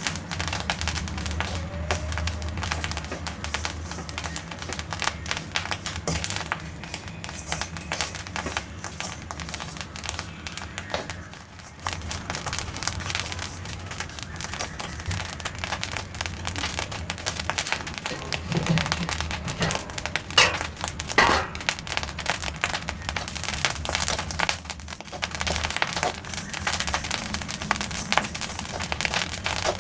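Black sesame seeds popping fast and continuously as they dry-roast in a pan, a dense crackle of tiny snaps. The popping shows the seeds are still roasting and not yet done.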